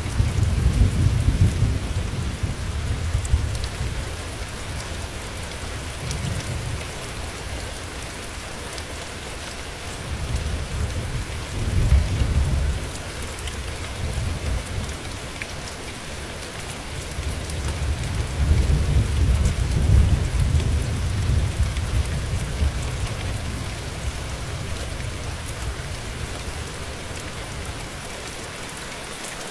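Steady rain with a continuous hiss, and distant thunder rolling in low rumbles that swell and fade three times: at the start, about eleven seconds in and about twenty seconds in.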